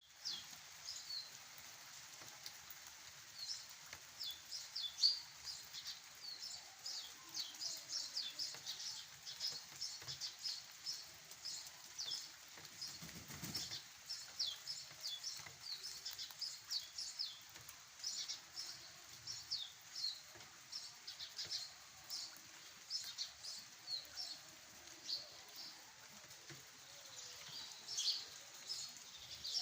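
Birds chirping rapidly, several short high-pitched chirps a second without a break, over a steady hiss of rain.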